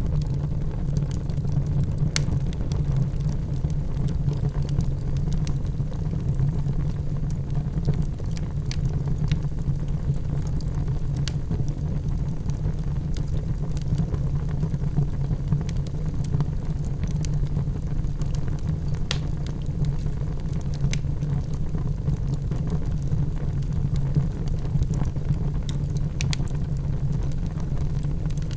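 Wood fire burning in a fireplace: a steady low rumble with sparse, irregular sharp crackles and pops.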